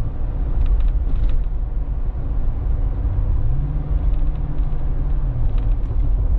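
2013 Lexus GX460's 4.6-litre V8 through a Magnaflow muffler, heard from inside the cabin while driving: a steady low drone over road rumble. The engine note rises about three and a half seconds in, holds briefly, then settles back.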